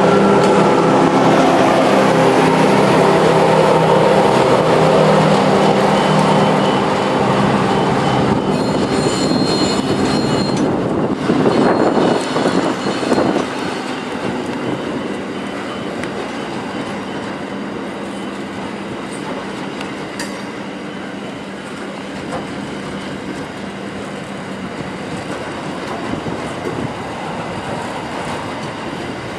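Diesel locomotives of a grain train pass close by, their engines droning with a steady hum for the first several seconds. The grain hopper wagons then roll past with wheel and bogie noise, a brief high wheel squeal about nine to eleven seconds in, and a steady rolling clatter for the rest.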